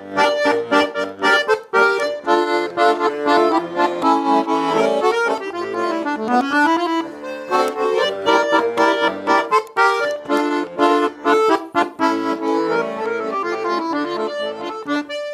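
Russian garmon (button accordion) playing an instrumental passage alone, with no voice: a quick melody of many short notes over held chords.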